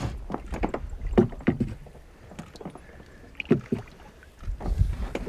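Small rowing boat on the water: scattered knocks and clatter against the hull, with a low rumble at the start and again near the end.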